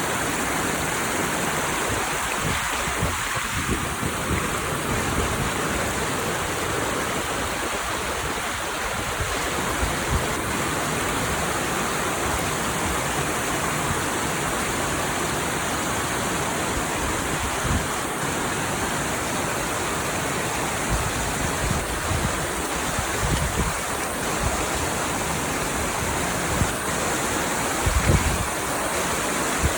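Steady rushing roar of a large Himalayan waterfall, even and unbroken, with a few brief low bumps near the end.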